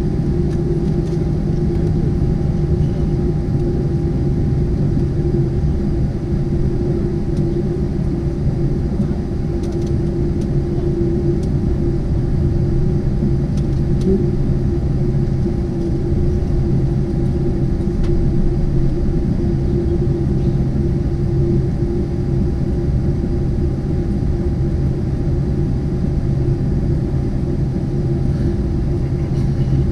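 Cabin noise of a Boeing 747-8 taxiing to the gate: a steady low rumble from its four GEnx engines at low thrust and the rolling airframe, with a constant hum over it.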